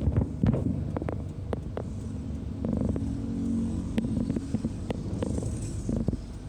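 Distant airliner jet engines rumbling as the plane taxis, with scattered sharp clicks over the top and a steadier hum about three seconds in.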